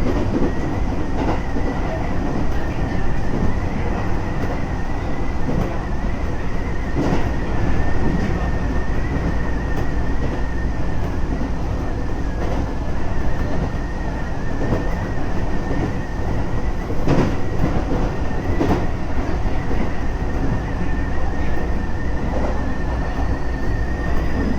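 Keisei 3400 series electric train running at speed, heard on board: a steady low rumble of wheels on rail with a thin, steady high whine. A few rail-joint clacks come through, two of them close together late on.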